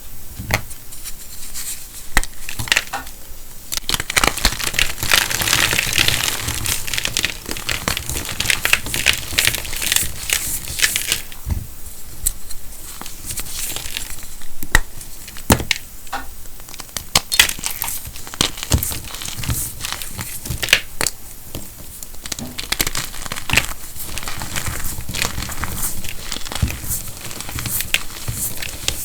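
Calcium carbonate crunching and crumbling: a dense run of sharp crackles and snaps, busier in some stretches and thinner in others.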